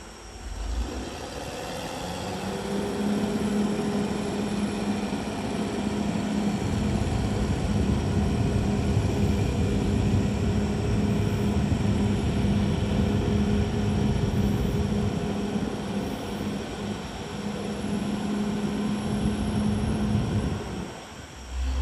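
Diesel engine of a CAT D6R XL bulldozer running as the machine works, a steady drone that swells over the first few seconds and dips briefly near the end.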